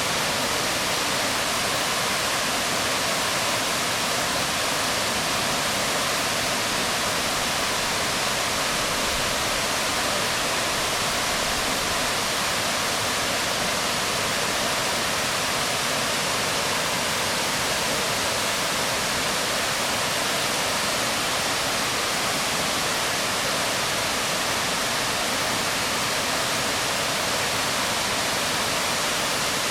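Waterfall pouring onto rocks: a steady, dense rush of falling water with no change in level.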